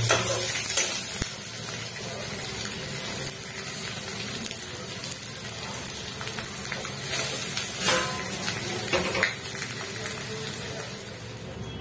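Paneer cubes sizzling in hot oil in an aluminium kadai, fried golden, while a spatula turns and scrapes them against the pan. There are a few louder scrapes about two-thirds of the way through.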